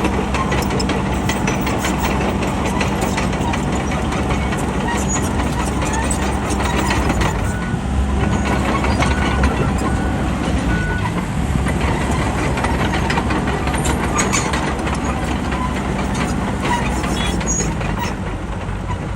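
A bulldozer's diesel engine running steadily under load, with much clatter over it. Near the middle, a reversing alarm beeps about once a second for a few seconds.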